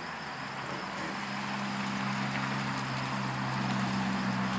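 A motor's steady low hum that slowly grows louder from about a second in, over a continuing chorus of crickets.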